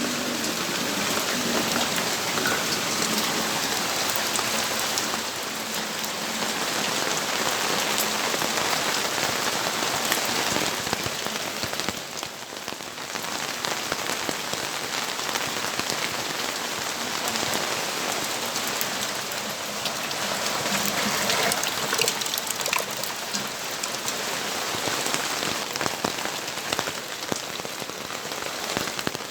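Steady rainfall, a continuous wash of rain with many individual drops heard as sharp ticks, easing briefly about twelve seconds in.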